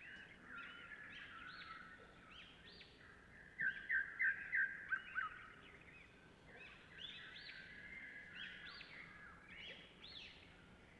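Birds chirping and calling, many short rising-and-falling chirps overlapping throughout, with a run of about six loud sharp chirps a third of the way in.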